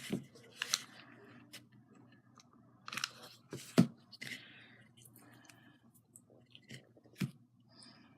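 Craft materials being handled on a table: scattered rustling and crinkling, with a sharp tap a little under four seconds in, the loudest sound, and another a little after seven seconds.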